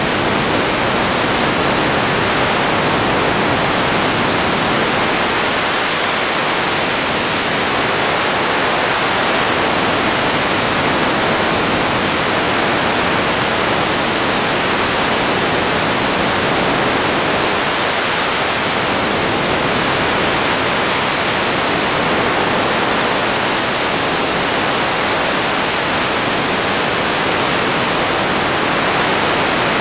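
Radio static: a steady, even hiss of noise that holds at one level without breaks or tones.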